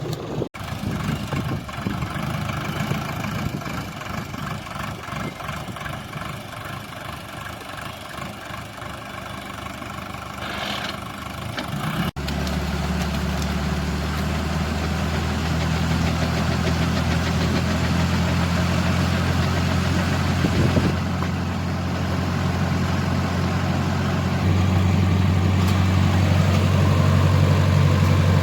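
Tractor engine running steadily. About twelve seconds in, the sound cuts to a deeper, steadier engine note, which grows louder near the end.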